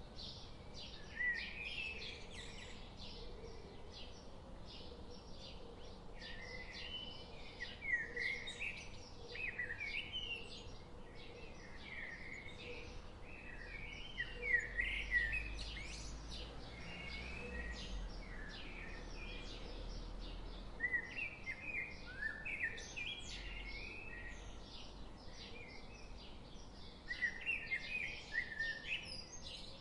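Several songbirds chirping and singing in quick, overlapping phrases over a steady background hiss of forest ambience.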